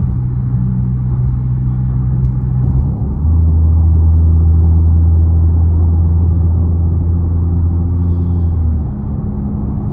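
Car engine and exhaust droning steadily under way, heard from inside the cabin. About three seconds in it drops to a lower, louder note, and near the end it eases off to a quieter, higher note.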